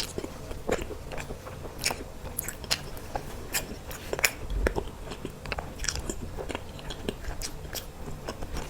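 Close-miked eating sounds: a person biting and chewing dessert cake, with many short, sharp mouth clicks at an irregular pace.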